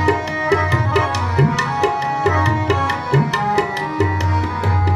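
Tabla playing an even rhythm of quick strokes, with the bayan's deep bass notes swelling and bending in pitch, over held melody notes in an instrumental passage of kirtan between sung lines.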